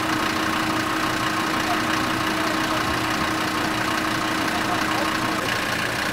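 SUV engine idling steadily, with a steady tone in it that fades out about five and a half seconds in.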